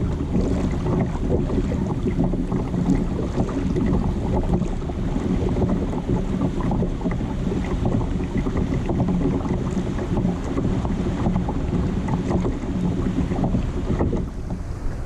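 Steady rumbling wind buffeting the microphone, mixed with water sounds around a kayak on the sea.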